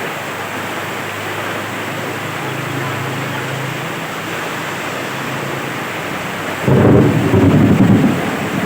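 Steady heavy rain, with a sudden loud low rumble of thunder breaking in about two-thirds of the way through and lasting over a second.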